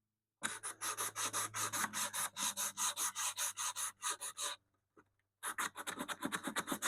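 Hand sanding a wooden radio cabinet with coarse 80-grit canvas-backed sandpaper: quick back-and-forth scraping strokes, about four or five a second. There is a brief pause about four and a half seconds in, then the strokes resume.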